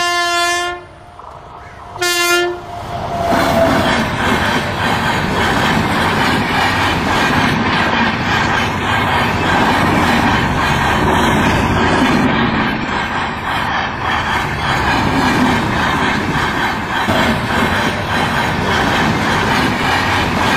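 Passenger train horn blowing, cutting off just under a second in and sounding again briefly about two seconds in. Then the train's coaches run past the crossing with a loud, steady rolling sound of wheels on the rails.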